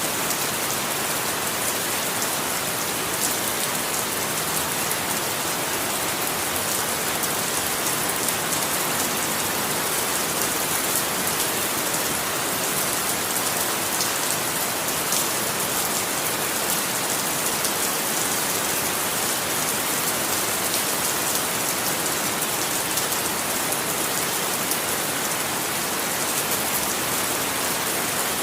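Steady rain falling, an even hiss with fine drop ticks, strongest in the highs.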